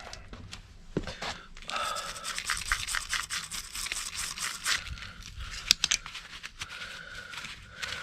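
Hand wire brush scrubbing a car suspension part in quick back-and-forth strokes, from about two seconds in to about five seconds and again near the end. A single sharp knock comes just before six seconds.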